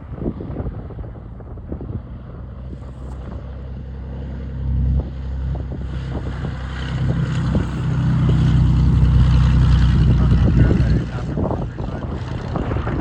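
Beechcraft Bonanza's piston engine and propeller droning as the plane comes in, growing louder and loudest from about eight to eleven seconds in, then dropping off sharply. Wind buffets the microphone throughout.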